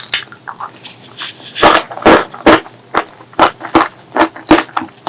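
Close-miked chewing and mouth smacking while eating, in quick short bursts about two to three a second, louder from about a second and a half in.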